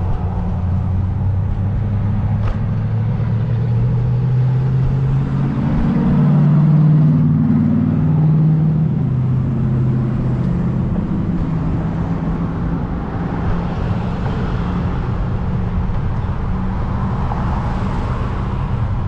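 Street traffic: a motor vehicle's engine hums steadily, rising in pitch and growing louder about seven seconds in before settling back to a steady hum, over a low rumble.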